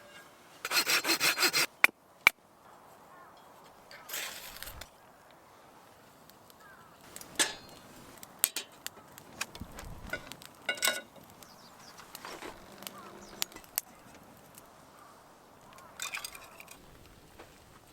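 A short run of fast sawing strokes on wood about a second in, then scattered knocks and clicks of wood and gear being handled.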